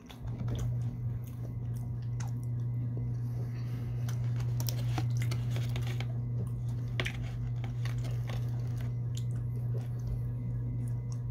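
A person chewing apple pie, with scattered small clicks of a utensil on the pie box, under a loud steady low hum that starts just after the beginning.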